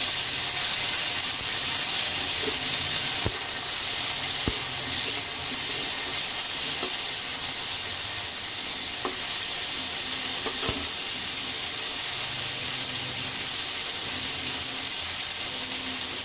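Soaked dried mango pieces frying in a little hot oil with panch phoron in a kadai, a steady sizzle, with a few sharp clicks of the spatula against the pan as they are stirred.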